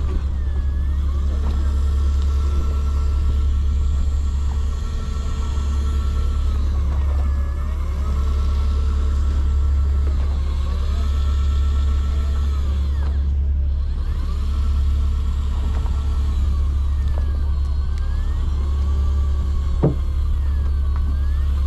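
A fishing party boat's engine running with a steady low drone. Faint whining tones above it keep dipping and rising in pitch every few seconds, and there is one sharp click near the end.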